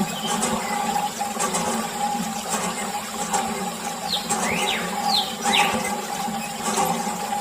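Small electric water pump on a toy tractor running with a steady hum, water spraying and splashing. A few short sliding chirps come in over it in the second half.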